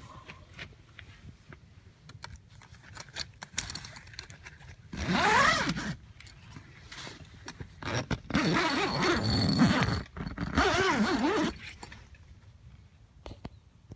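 Scattered clicks and knocks, then a loud rasping sound that rises in pitch about five seconds in, and a longer stretch of wavering rasping from about eight to eleven and a half seconds.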